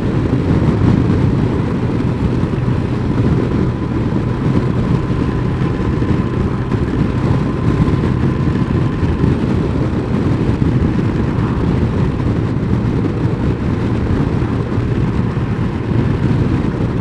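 Honda CBF1000's inline-four engine running steadily at cruising speed, heard under a heavy rush of riding wind on the microphone, with no change in revs.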